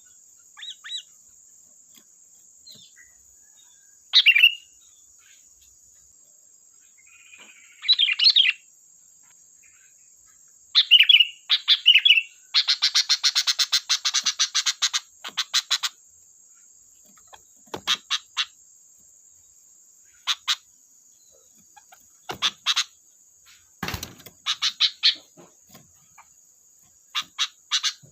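Sooty-headed bulbul calls, played as a lure. Short chirps and phrases come in scattered bursts, with a rapid chattering rattle of about ten notes a second lasting some three seconds in the middle.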